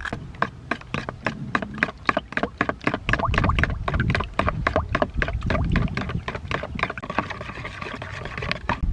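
Water splashing and sloshing, with a quick run of sharp clicks, about four or five a second.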